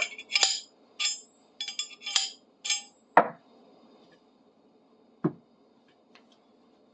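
Steel hand tools clinking and tapping against metal: a quick run of short, bright clicks, then two heavier knocks, one about three seconds in and one about five seconds in.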